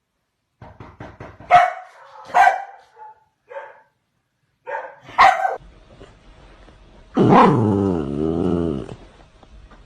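A dog barking: a few sharp barks spaced a second or more apart, then a longer drawn-out call with a wavering pitch lasting about two seconds near the end.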